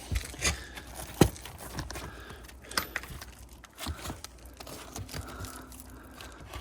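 Brittle asphalt roof shingles being pried and torn loose around their nails: scraping and crackling with several sharp knocks, the loudest a little over a second in.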